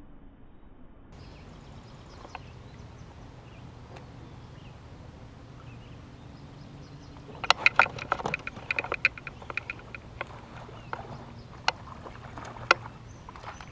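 Sharp clicks and rattling knocks from gear handled on a kayak while a largemouth bass is being landed. The clicks come in a quick flurry about halfway through, then a few single ones, over a steady low hum.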